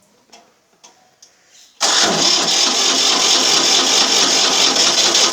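Ford 3600 tractor's three-cylinder diesel engine starting: after a near-quiet lead-in it fires abruptly about two seconds in and settles into a loud, steady idle.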